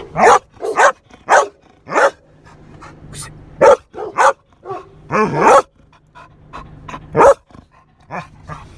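A dog barking repeatedly inside a van: about a dozen short, sharp barks, with one longer, wavering bark about five seconds in.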